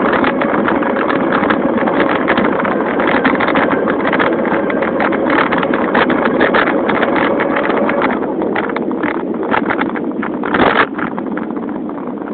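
Electric-motor bicycle riding along. A Turbospoke exhaust rattles fast off the spokes, with a steady motor whine that fades about eight seconds in. Wind buffets the microphone, with a brief louder burst near the end.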